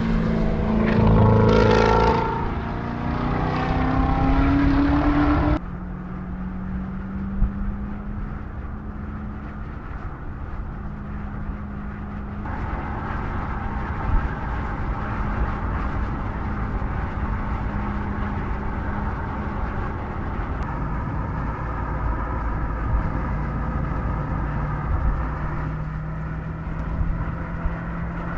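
2019 Chevrolet Corvette ZR1's supercharged 6.2-litre V8 revving with its pitch rising for the first five or so seconds. It then changes abruptly to a steady drone at a constant engine speed.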